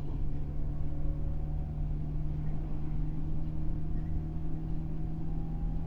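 JR 103-series electric train heard from inside motor car MoHa 103-385: its MT55 traction motors hum on a steady pitch over the low rumble of wheels on rails while the train runs.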